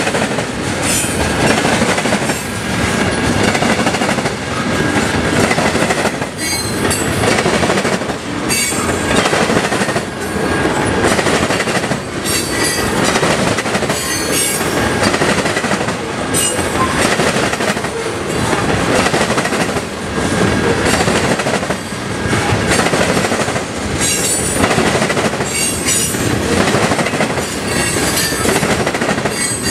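CSX freight train cars rolling past: a steady loud rumble of steel wheels on the rails, with clacking and a high wheel squeal that comes and goes every couple of seconds.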